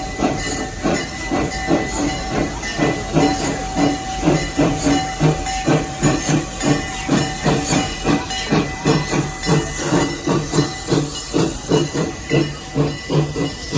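Crown Metal Products 4-4-0 propane-fired steam locomotive chuffing steadily with a hiss, about two to three exhaust beats a second.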